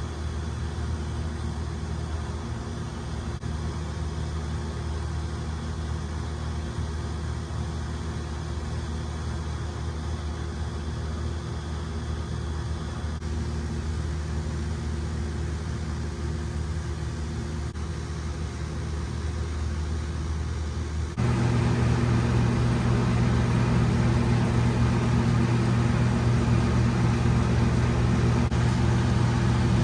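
Steady low mechanical hum of a running motor. About two-thirds of the way through it suddenly steps up louder and stays there.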